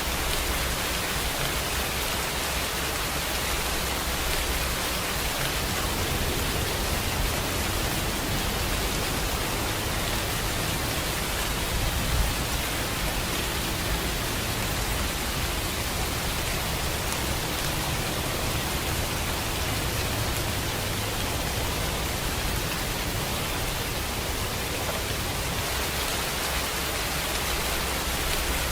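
Steady rain falling, heard as an even hiss across the whole range with some low rumble, and one brief louder spot about twelve seconds in.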